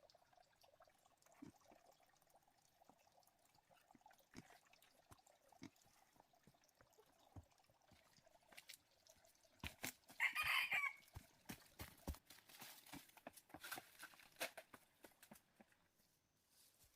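A rooster crows once, about ten seconds in, the loudest sound here, over scattered small knocks and rustles.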